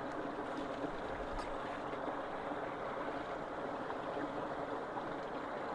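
Floodwater rushing steadily as it drains into submerged road culverts, a constant, even sound.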